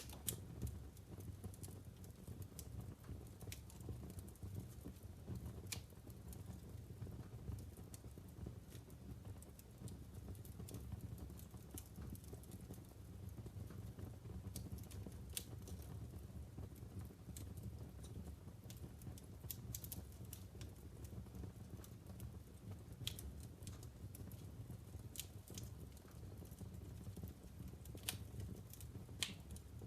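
Wood fire burning in a fireplace: logs crackling with irregular sharp pops over a steady low rumble. A couple of louder pops come near the end.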